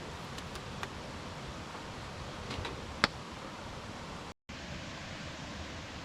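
Steady outdoor background noise with a few light clicks and one sharp click about three seconds in; the sound cuts out for a moment a little past the middle.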